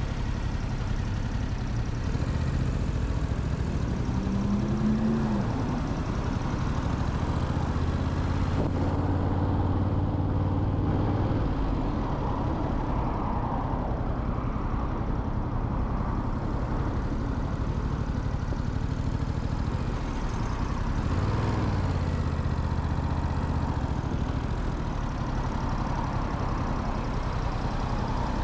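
Motorcycle engine running under road and wind noise, its pitch rising and falling a few times as it speeds up and slows down, with a steadier stretch in between.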